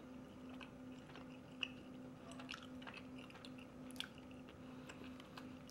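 A person chewing a mouthful of Larabar cashew cookie, a soft date-and-nut bar: faint, irregular mouth clicks and smacks, over a low steady hum.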